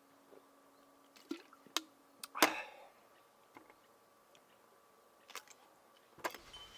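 A few sharp clicks and knocks, the loudest about two and a half seconds in; a faint steady hum stops at the same moment.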